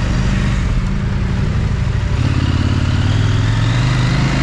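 Parallel-twin adventure motorcycle engine pulling at low revs in first gear, with the engine note rising slightly in the second half.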